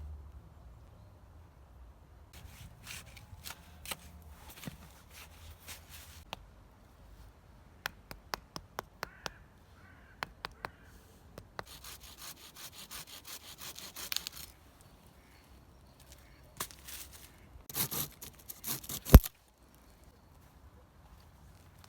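Rubbing or scraping strokes in several bursts, a quick run of about six clicks, and one sharp knock about nineteen seconds in.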